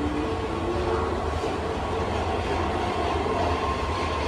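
Keihan electric commuter train moving at low speed alongside an underground station platform: a steady low rumble with thin whining tones over it, echoing in the enclosed station.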